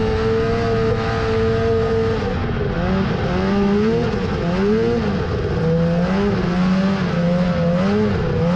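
Snowmobile engine running at a steady pitch for about two seconds, then revving up and down again and again as the throttle is worked.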